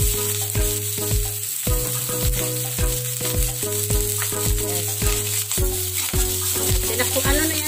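Chicken feet sizzling in hot oil in an aluminium wok, stirred with a spatula near the end. Background music with a steady electronic kick-drum beat, about two beats a second, plays over the sizzle.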